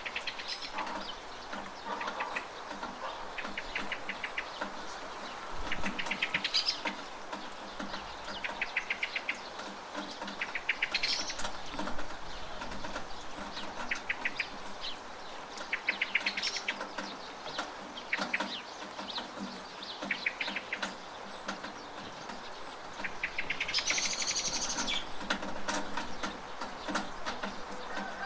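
Steady rain with scattered drips and patters, and a bird repeating a short, rapid chattering trill every few seconds.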